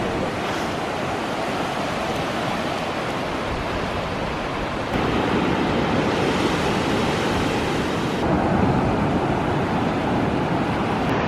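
Ocean surf washing onto the beach, a steady rush of noise with wind buffeting the microphone; it gets louder about five seconds in.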